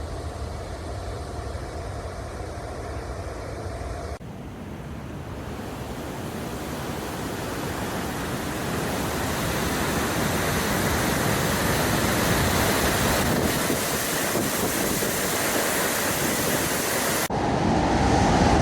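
Steady roar of a large waterfall, growing gradually louder, with abrupt shifts in the sound about four seconds in and near the end.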